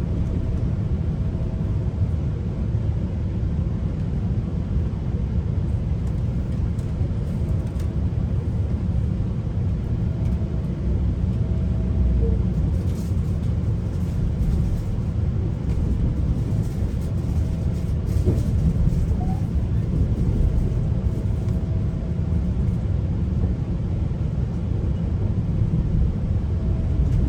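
Steady low rumble of a GO train coach in motion, heard from inside the coach, with a faint thin whine that comes and goes.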